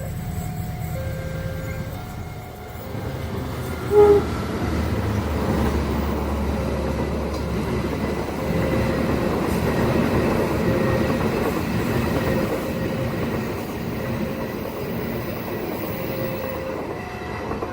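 A long train passing over a level crossing: a steady rumble of wheels on rails with a low engine hum, after a short horn blast about four seconds in. The crossing's two-note warning alarm alternates at the start and comes back near the end.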